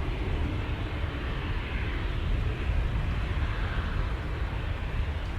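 Jet airliner engines running, a steady rumble and hiss with a faint shifting whine, mixed with gusty wind buffeting the microphone.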